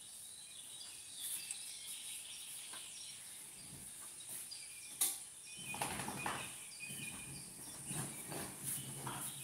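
Outdoor riverside ambience with scattered short chirps of small birds. A sharp click about five seconds in is followed by a few seconds of rustling handling noise.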